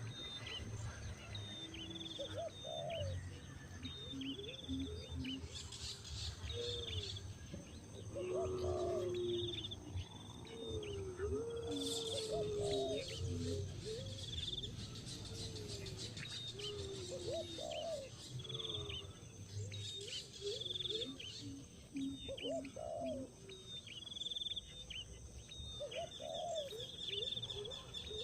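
Birds calling: a low call that rises and falls, repeated every second or two, with quick high chirps over it throughout.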